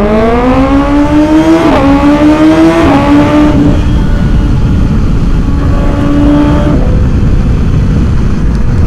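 BMW S1000XR's inline-four engine with a full Akrapovic titanium exhaust, accelerating hard under way. Its pitch climbs and dips sharply twice, about two and three seconds in, as the quick shifter snaps through upshifts. It then holds steady and eases off about seven seconds in, with wind rushing over the microphone throughout.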